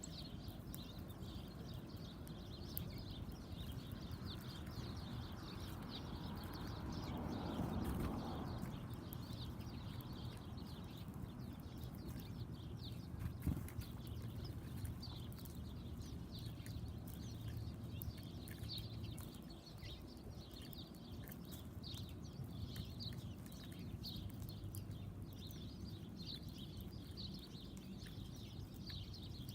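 Many small backyard birds chirping continuously in quick, short high notes over a steady low rumble. About eight seconds in, a louder rushing sound swells and fades.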